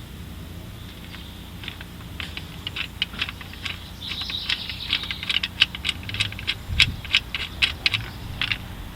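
Socket ratchet clicking in quick, uneven runs while turning bolts through a long extension.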